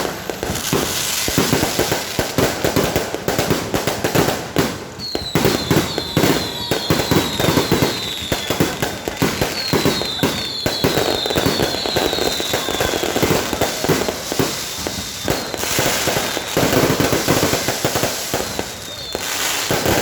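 Fireworks going off continuously in a dense crackle of bangs and pops, with two runs of short, quickly repeated falling whistles, about five seconds in and again about ten seconds in.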